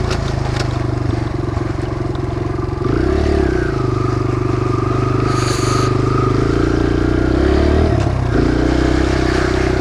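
Kawasaki KLX140 dirt bike's single-cylinder four-stroke engine running under way, its revs shifting twice, about three seconds in and again near the end.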